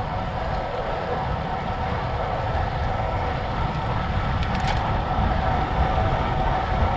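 Wind rushing over a bike-mounted action camera's microphone, with tyre rolling noise from a 2014 Ridley Phoenix aluminium road bike on Continental GP5000 tubeless tyres, under a faint steady hum. A brief rattle about four and a half seconds in.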